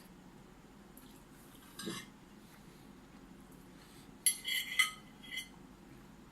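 Cutlery clinking against a plate: a few sharp, ringing clinks a little over four seconds in, the loudest two about half a second apart, after a faint softer sound near two seconds.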